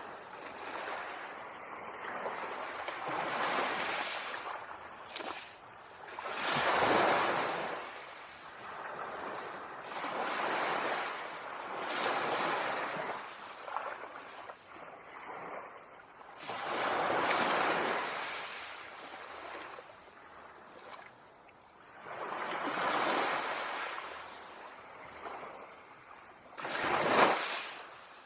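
Ocean waves breaking on a beach. The surf swells and falls every few seconds, with a short, sharp, loudest break near the end.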